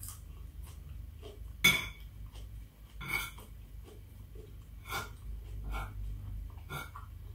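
Eating sounds: a metal spoon scraping and clinking against a plate of fried rice, with mouth and chewing sounds, as a handful of separate short clicks, the loudest about two seconds in. A low steady hum lies underneath.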